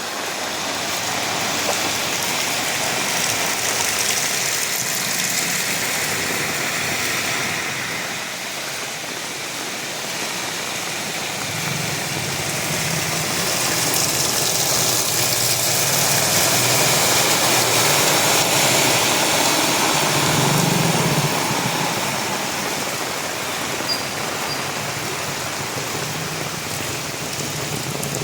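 Heavy rain falling steadily. From about the middle on, a motor vehicle's engine hums low underneath it.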